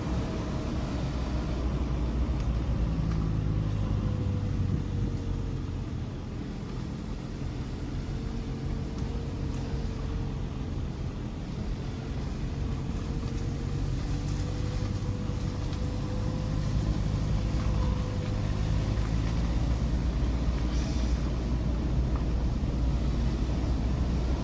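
Motor vehicle running steadily with a low rumble and road noise, and a faint steady whine that sags slightly in pitch and recovers. A brief hiss sounds about 21 seconds in.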